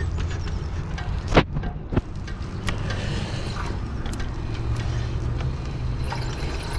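Bicycle riding along, heard from a camera mounted on the bike: a steady low rumble of tyres and wind, with two sharp knocks about a second and a half and two seconds in, like the bike jolting over bumps.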